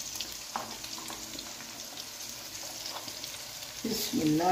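Chopped tomatoes and onions gently sizzling in hot oil in a nonstick wok, with a few faint clicks.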